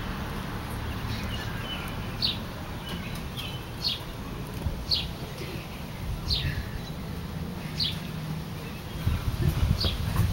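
A bird calling: a short, high, downslurred note repeated about six times, one every second or two, over a low steady rumble.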